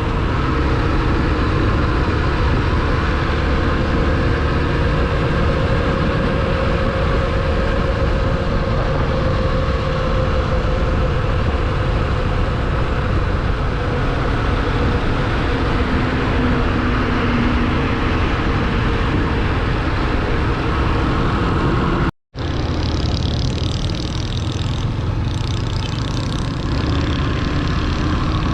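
Motorcycle riding noise: engine running and wind rushing over the mic, steady throughout. About 22 seconds in, the sound drops out for an instant, then the same riding noise resumes with more hiss.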